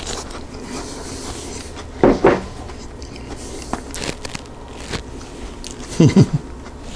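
A man chewing a soft peanut butter cookie, with small mouth clicks, and two short voiced hums of enjoyment, about two seconds in and again about six seconds in.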